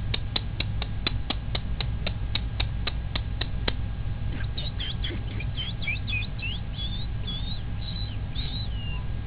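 A pearl cockatiel making soft, twittering chatter of short curling chirps in its second half. Before that comes a run of quick, even clicks, about four a second, which stops abruptly.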